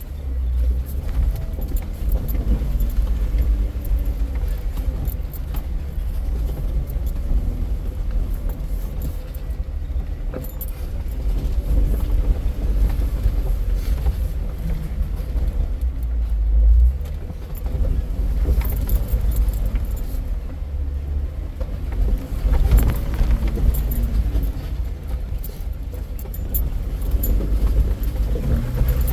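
Jeep crawling slowly over a rough, rocky trail: a low engine and drivetrain rumble under constant jangling and rattling from the body and loose gear in the cab.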